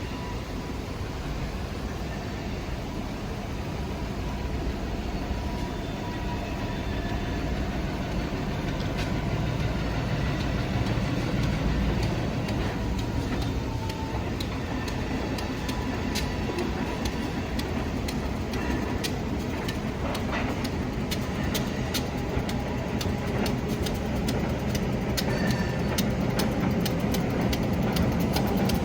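Freight train's diesel locomotive rumbling as it approaches, growing slowly louder. Sharp clicks come more and more often through the second half.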